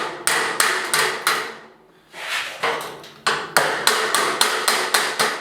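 Rapid hammer blows on a light fixture's steel housing, about three a second in two runs with a short pause about two seconds in, each strike ringing briefly. This is typical of knocking out a knockout hole to take a cable strain relief.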